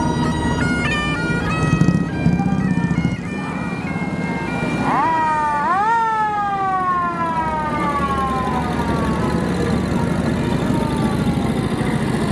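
Bagpipe melody playing for the first few seconds, then a siren that winds up sharply about five seconds in and slowly winds down in one long falling wail.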